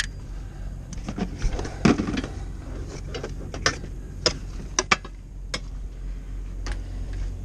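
Metal clanks and clicks as a semi tractor's fifth wheel release handle is worked with a puller hook to unlatch the trailer, over the steady low hum of the idling truck.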